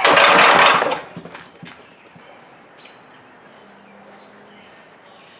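Old Gravely tractor engine pulled over by its starter rope, turning over noisily for about a second without catching: a failed start attempt with fuel poured down the plug hole after a timing adjustment. Faint bird chirps follow.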